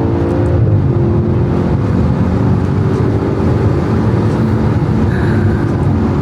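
2013 Audi RS5's V8 engine accelerating hard on a full-throttle pull, heard from inside the cabin over road noise. Its revs climb, drop once at a gear change about half a second in, then climb again.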